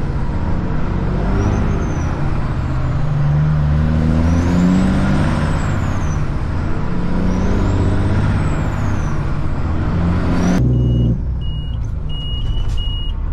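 Caterpillar C-15 diesel in a Kenworth truck pulling through the gears: the engine note climbs and drops back several times, with a high whistle rising and falling alongside it. About ten and a half seconds in, the engine sound drops off suddenly, and short evenly spaced high beeps follow.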